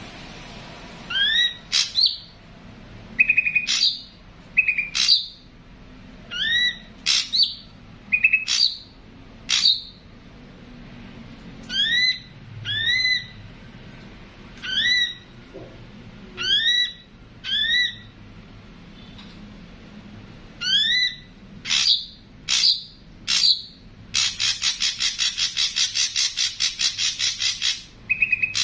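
Ashy drongo calling: repeated short rising whistles mixed with sharp clicks and brief buzzy notes, then near the end a harsh, rapid chattering rattle lasting about four seconds.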